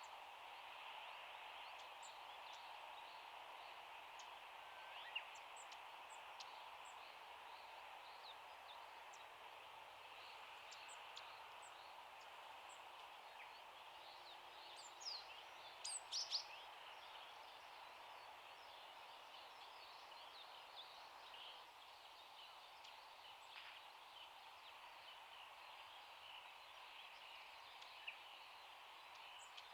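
Long-tailed tits' high, thin calls, faint and scattered, with a short louder flurry of calls about halfway through, over a faint steady outdoor hiss.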